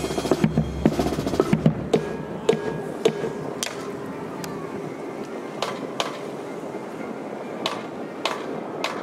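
Marching band drums beating for about the first two seconds, then scattered sharp taps and knocks over a steady background before the band starts playing.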